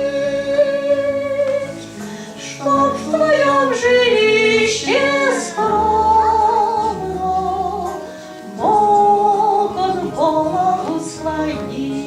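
Gospel hymn music: a female voice singing long held notes with vibrato over instrumental accompaniment.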